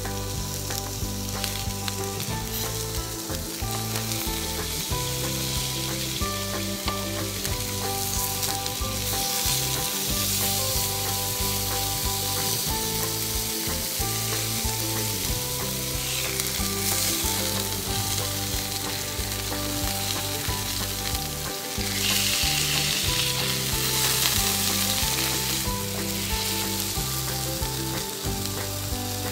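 Chicken breasts searing in oil in a nonstick frying pan, a steady sizzling hiss. It grows louder for a few seconds about three quarters of the way through.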